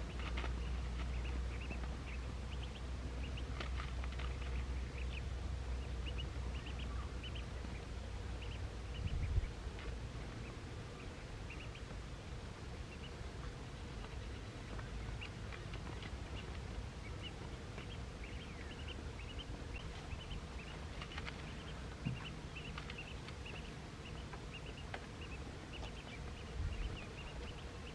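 Ducks quacking, many short calls throughout, over a low rumble that fades about a third of the way in.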